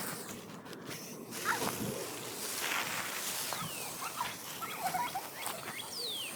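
Birds calling outdoors: a few short falling whistles and light chirps over a steady hiss.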